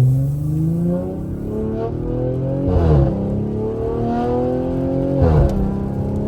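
Audi RS5's twin-turbo V6, breathing through 034 Motorsport high-flow downpipes and an AWE Track exhaust, pulling hard under acceleration heard from inside the cabin: the pitch climbs steadily, drops sharply at two quick upshifts about three and five seconds in, then climbs again.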